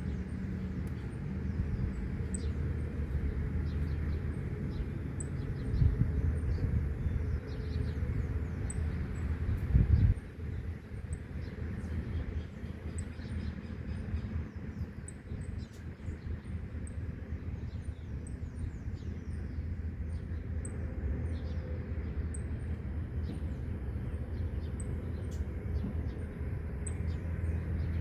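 Outdoor ambience: small birds chirping over a steady low rumble of road traffic and wind. The rumble swells briefly about six seconds in and again near ten seconds.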